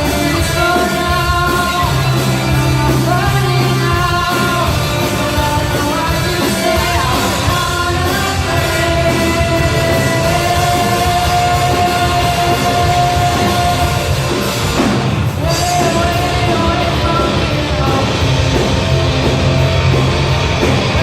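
Rock song with loud sung vocals over a full band of guitars, bass and drums. A single note is held for several seconds mid-way.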